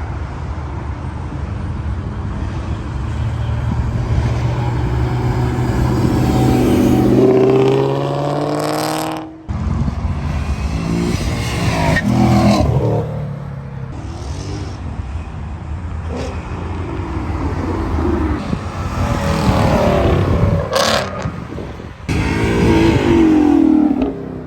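Car engines revving and accelerating away, the engine pitch climbing several times, with sudden cuts between short clips about nine seconds in and near the end.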